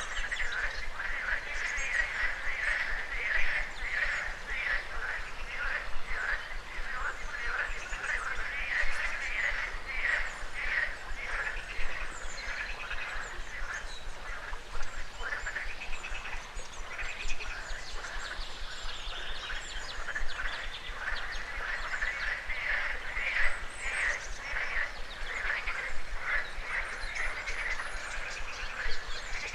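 A chorus of frogs croaking: dense, rapidly repeated calls that go on without a break. Higher, sharper bird calls come through at times over the chorus.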